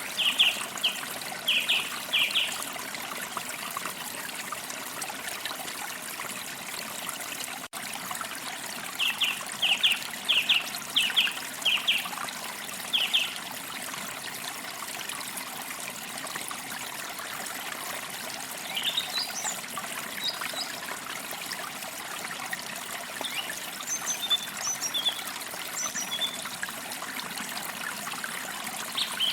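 A forest stream trickling steadily, with songbirds singing over it: two runs of short, sharp repeated notes near the start and about a third of the way in, then thinner, higher chirps later on.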